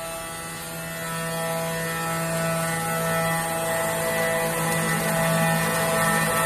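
CNC router running: a steady machine whine with constant tones over cutting hiss, growing somewhat louder about a second in.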